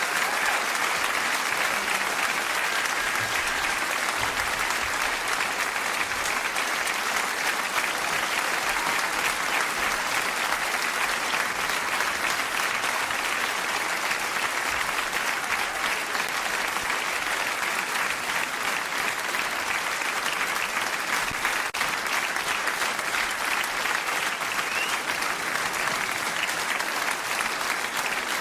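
Large concert audience applauding steadily after the final song.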